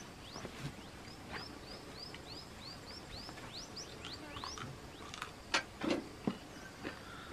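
A bird calling over and over in quick rising chirps, about three a second, for the first four seconds or so. Then a few sharp crunches near the end, from chewing crispy fried chicken.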